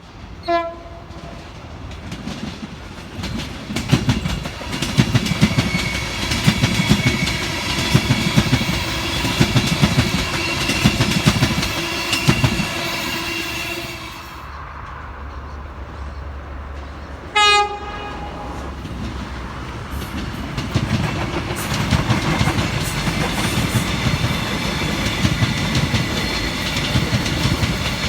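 Trains passing, their wheels clattering over the rail joints, with a short horn blast about half a second in and another, louder, about 17 seconds in. The wheel noise eases off briefly around the middle and then builds again.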